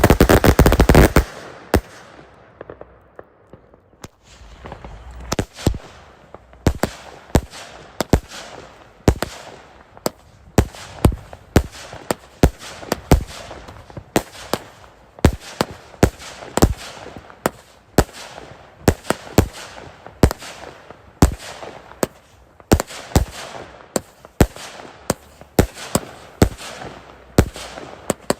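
Fireworks going off: a dense crackling barrage in the first second, then after a short lull, a steady run of separate sharp bangs, one to a few each second.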